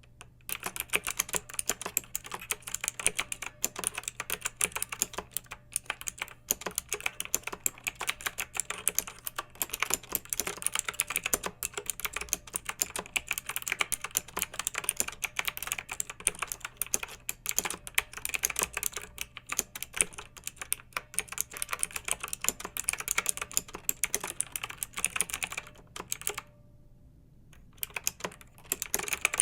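Clicky mechanical keyboard being typed on in a fast, steady stream of keystrokes, with one pause of about a second and a half near the end before typing resumes.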